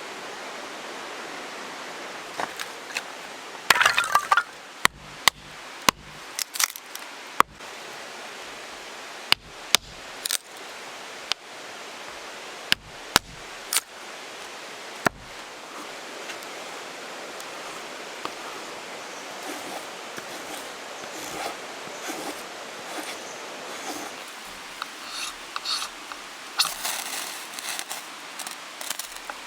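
Sharp knocks of an axe striking firewood, about a dozen spread over the first fifteen seconds, then softer scattered crackles and short scraping sounds over a steady hiss.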